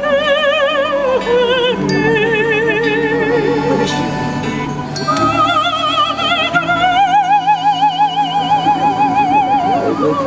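A high, soprano-range voice singing in an operatic style with wide vibrato, over sustained instrumental accompaniment. It sings long held notes in two phrases, with a brief breath between them about halfway through.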